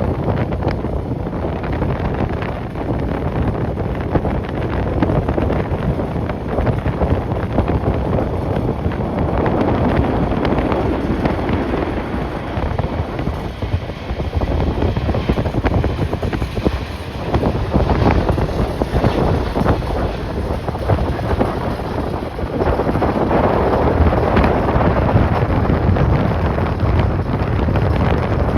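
Strong, gusty wind buffeting the microphone, a loud low rumble that swells and eases in gusts.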